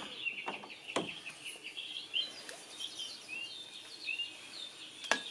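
Songbirds chirping steadily in quick short notes, heard faintly. Two sharp clicks sound about a second in and near the end.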